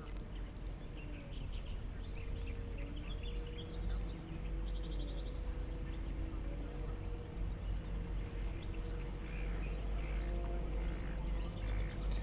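Small birds chirping, with a quick trill a few seconds in, over a steady low rumble and a held hum.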